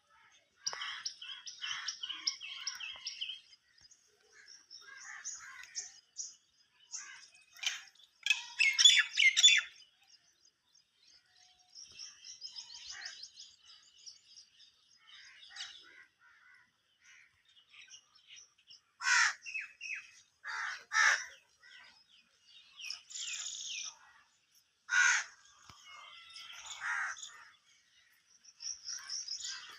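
Several birds chirping and trilling. A few louder, harsh cawing calls stand out in the second half.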